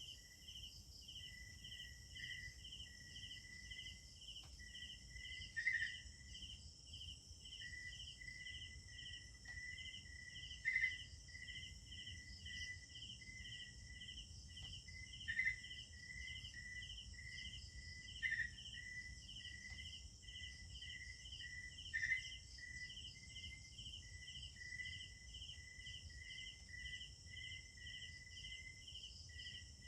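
Night insect chorus of crickets: a steady high-pitched buzz with an even pulsing chirp at about two a second and a thinner steady trill beneath. A short louder call cuts in five times, every few seconds.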